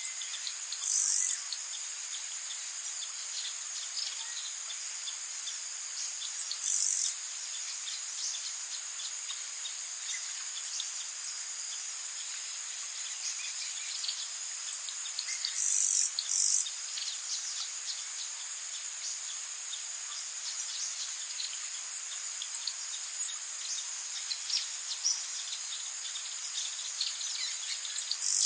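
Rainforest ambience: a steady, high-pitched chorus of insects such as crickets. Short, louder high chirps break through every several seconds, two of them in quick succession about halfway through.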